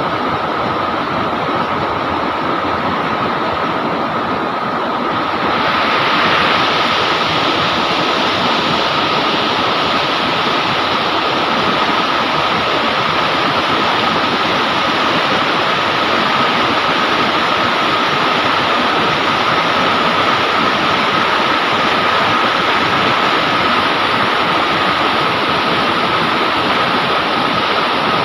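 River water rushing and churning steadily, growing louder and brighter about five seconds in.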